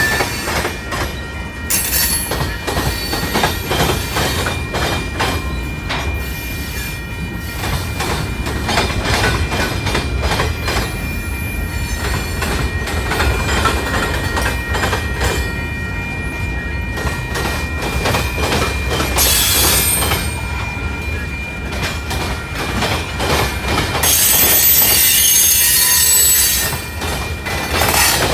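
Freight train cars (tank cars and covered hoppers) rolling past: a steady rumble of wheels on rail with rapid clicking over the joints and a thin, high wheel squeal. A louder, hissing stretch comes near the end.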